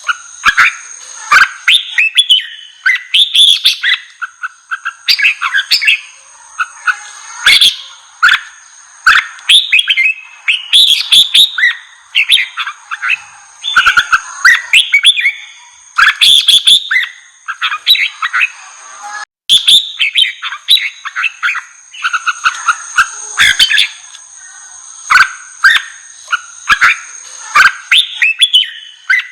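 Red-whiskered bulbuls singing a run of fast, loud, warbling song phrases in a fired-up, aggressive style. Two steady high-pitched tones run underneath and break off briefly about two-thirds of the way through.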